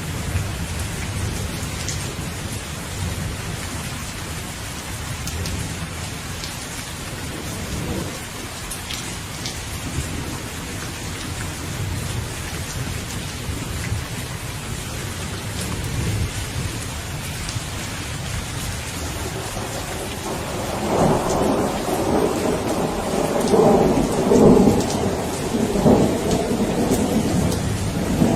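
Steady rain falling, with low rolling thunder underneath. About two-thirds of the way in, a louder thunder roll rumbles for several seconds before easing off near the end.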